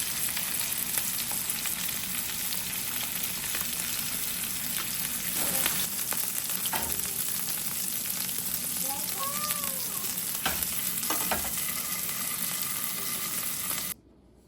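Steak sizzling steadily in a hot frying pan, with a few knocks of a utensil against the pan. The sizzle cuts off suddenly near the end.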